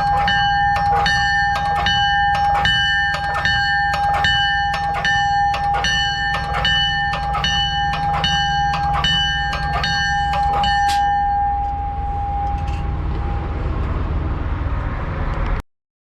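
A 1930s-era bell mounted on a Peterbilt 379 truck, rung repeatedly at about two strikes a second; the ringing stops about 11 seconds in and dies away over the next two seconds. The truck's diesel engine idles with a steady low rumble underneath until the sound cuts off abruptly near the end.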